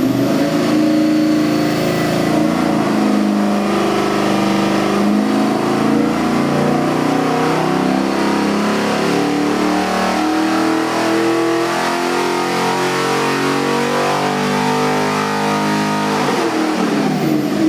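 LS3 376 cubic inch V8 crate engine running under load on an engine dyno, held at high revs with its pitch steady and climbing slightly, then dropping off as it comes off the pull near the end.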